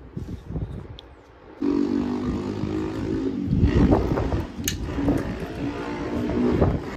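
A motor switches on about a second and a half in and runs with a steady hum, over irregular knocking and clatter.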